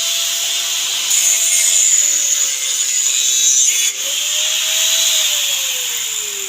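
Power cutting tool, likely an angle grinder, cutting metal: a steady motor whine with a harsh grinding hiss that grows louder for a few seconds and then breaks off abruptly. Near the end the whine falls steadily in pitch as the motor winds down.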